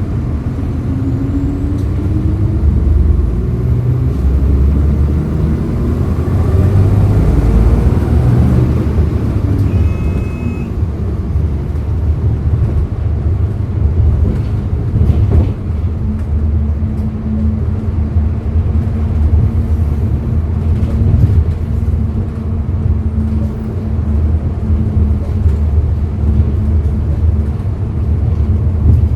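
Hyundai Green City CNG bus engine pulling away, its pitch rising for several seconds and then dropping, then running on with a steady drone. A brief electronic tone sounds about ten seconds in.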